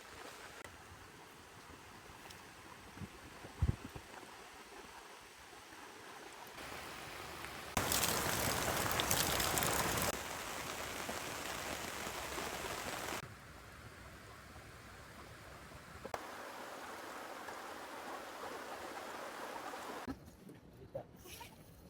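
Heavy rain falling as a steady hiss that jumps abruptly in loudness several times, loudest for about two seconds roughly eight seconds in.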